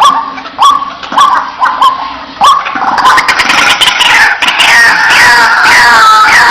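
White-breasted waterhen calling: a sharp rising 'kwak' repeated about twice a second, then from about three seconds in a louder, dense run of overlapping falling calls.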